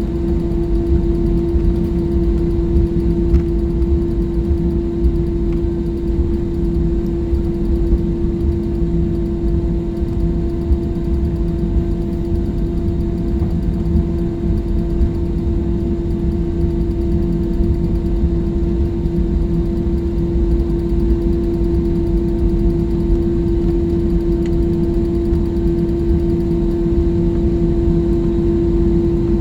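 Jet airliner cabin noise: a steady deep rumble of engines and airflow with one constant droning hum, unchanging throughout.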